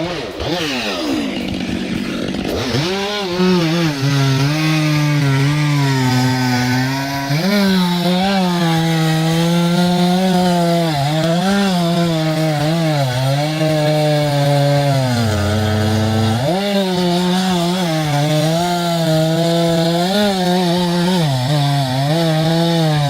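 Chainsaw running hard while cutting wood, its engine pitch wavering up and down under load. The pitch dips and climbs back in the first couple of seconds, and drops low about two-thirds of the way through before revving up again.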